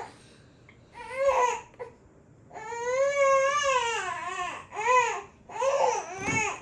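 Toddler crying: a short cry about a second in, then one long, high wail, then two shorter sobbing cries near the end.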